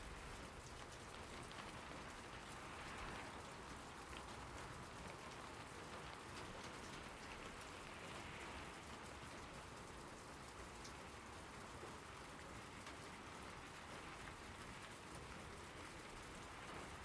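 Steady rain falling, faint, with a soft patter of drops that swells slightly now and then.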